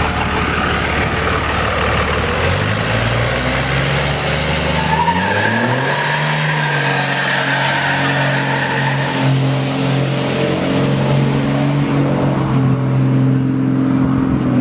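Truck engine pulling hard under throttle, its pitch climbing for a few seconds and then holding high and steady. A high thin whistle rises about five seconds in and holds with it.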